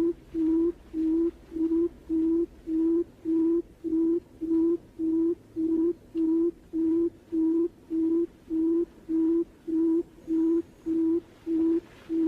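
Barred buttonquail's low hooting call: a long, even series of short notes on one pitch, about two a second.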